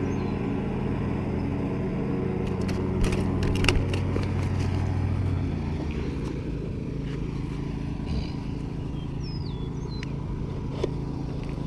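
Steady low hum of an engine running, easing slightly about halfway through, with a few sharp clicks around three to four seconds in and a couple of short high chirps.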